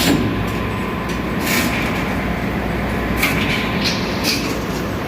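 Ship's engine-room machinery running: a steady low rumble with a thin constant whine, broken by several short hissing bursts.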